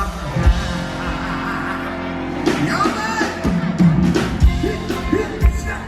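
Live band music with a steady drum beat about once a second; a wavering melody line comes in about halfway through.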